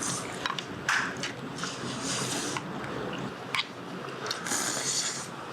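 Close-miked eating sounds of chicken soup: airy slurps from a spoon, heard twice, with chewing and sharp clicks of a spoon against the bowl.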